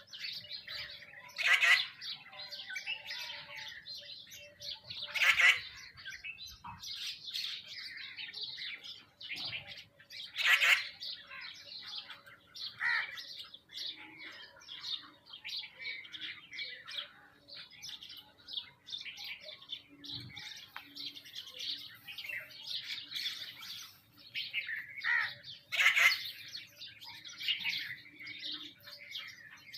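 A flock of small birds, house sparrows and mynas, chirping without a break, with several louder, harsh calls standing out among the chirps.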